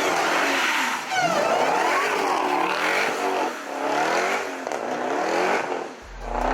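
Car engine revving hard, its pitch climbing and dropping again and again about once a second, over a constant rushing noise. A deep bass beat comes in near the end.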